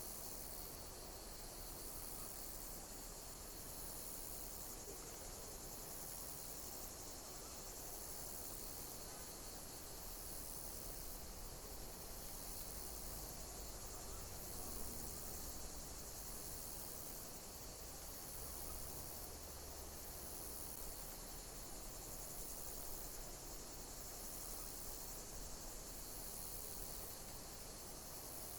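Insects chirping in chorus: a steady high-pitched hiss with a high chirping phrase repeating about every second and a half.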